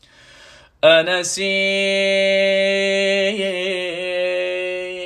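Male reciter's voice chanting an Arabic elegy, holding one long wordless note with ornamental wavers after a short breath.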